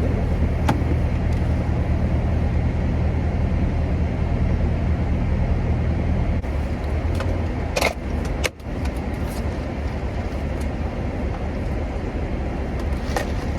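Steady road and engine noise heard from inside a moving car. The low hum shifts about six seconds in, and the sound briefly drops out about eight and a half seconds in.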